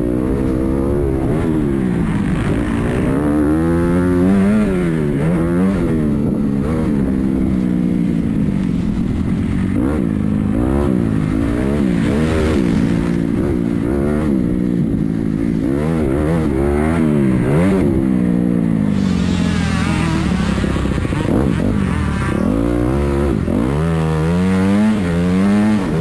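Motocross dirt bike engines on the track, revving up and falling back again and again as the riders work the throttle and shift through the gears, with more than one bike heard at once.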